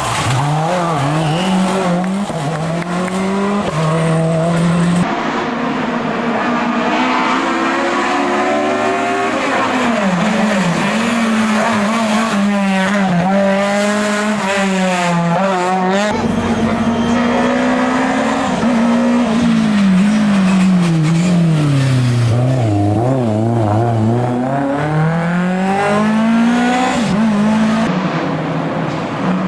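Historic rally car engines at full throttle, the revs climbing and dropping through gear changes, with a run of quick up-and-down revs about halfway through. The sound changes abruptly twice, as if from one car to the next.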